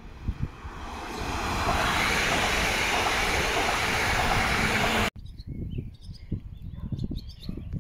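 Electric multiple-unit passenger train passing close at speed: a rush of wheels on rail and air that builds over the first two seconds and holds loud, then cuts off abruptly about five seconds in. Low, irregular rumbling continues underneath and after.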